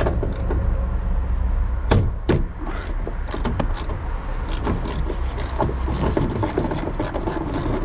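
A vehicle engine idling with a steady low hum, with frequent clicks and knocks over it.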